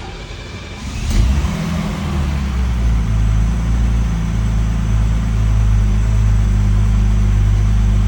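Mercedes-Benz 250 SE's inline-six cold start: the starter cranks briefly and the engine catches about a second in. It then settles into a steady fast idle while still cold.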